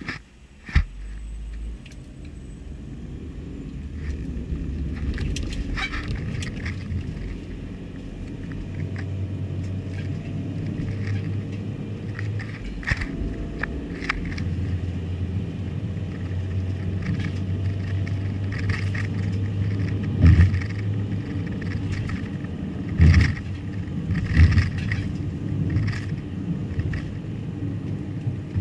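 Car driving: a steady low road rumble with scattered rattles and a few sharp bumps.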